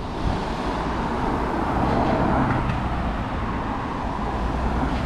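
Road traffic: a car passing close by, swelling about two seconds in and fading, over a steady low rumble of traffic.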